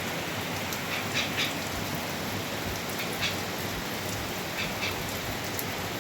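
Steady hiss of falling or running water, with short bird calls breaking through: three about a second in, one at about three seconds and two near the five-second mark.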